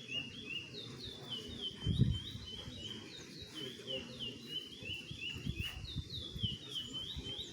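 A caged curió singing a fast, continuous song of short, down-slurred whistled notes repeated several times a second, over low background rumble with a dull thump about two seconds in.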